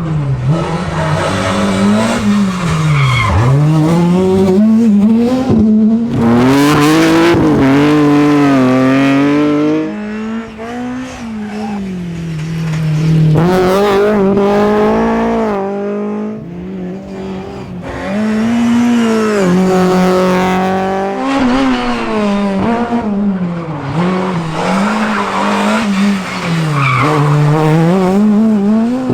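Rally cars driven hard: engines revving up and down again and again through gear changes and lifts, with tyres squealing in the slides, over several passes.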